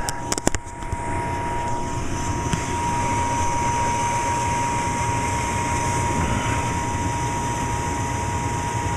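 Gas furnace running its start-up cycle: a few clicks, then a steady fan motor running with a constant high whine while the hot surface igniter heats.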